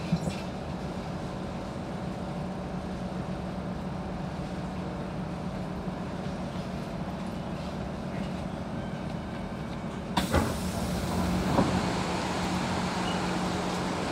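Inside an SMRT C651 Siemens train car: a steady low hum as the train slows and stands at the platform. About ten seconds in there is a sudden clunk as the doors open, and the sound becomes louder and fuller with hissing station air.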